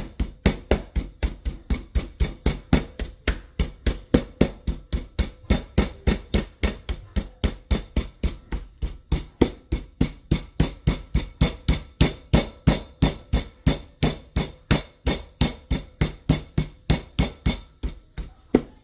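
Rapid, even knocking of a knife or mallet on a cutting board as raw chicken breast is worked, about three strikes a second.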